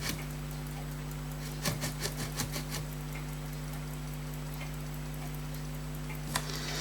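Faint, quick ticking of a pocket watch movement running on a partly wound mainspring, with a short run of small sharp metal clicks about two seconds in, over a steady electrical hum.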